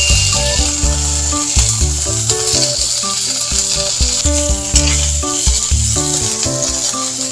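Chicken feet, onion and garlic sizzling steadily as they are stir-fried in a wok with a metal spatula, under background music with a prominent bass line.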